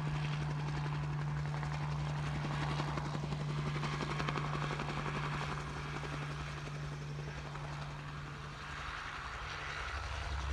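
Crop-dusting helicopter flying in at a distance: a steady rotor drone with a low hum and a fast pulsing, easing off a little near the end.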